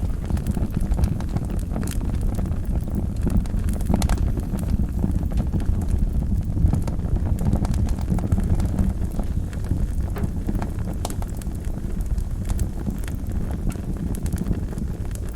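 Wood fire burning in a fireplace: a steady low rush of flames with irregular crackles and pops from the burning logs.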